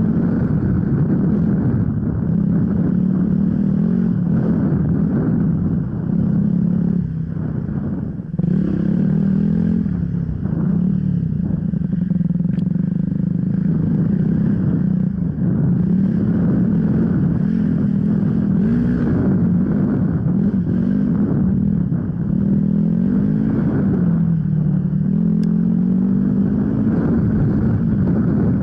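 Enduro motorcycle engine running hard under constantly changing throttle, its pitch rising and falling, with the throttle briefly shut off about seven to eight seconds in before it picks up again.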